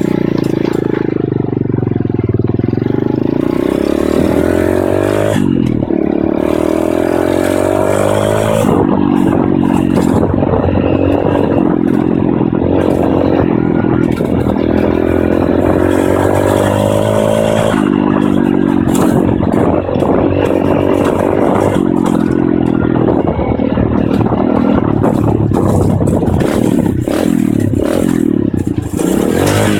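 Pit bike engine under way, its pitch climbing as it accelerates and dropping sharply at each gear change, several times over.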